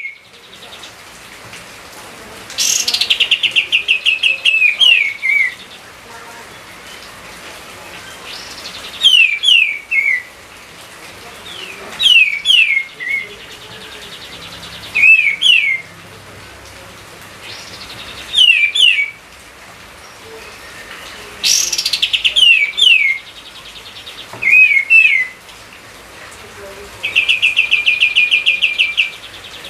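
A songbird singing in short, loud phrases repeated every two to four seconds. Several phrases open with a fast rattling trill, and each ends in a few quick falling whistled notes, over a faint steady hiss.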